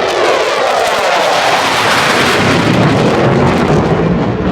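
F-16 Fighting Falcon jet flying past, its engine noise loud and dense, with the pitch gliding down as it passes.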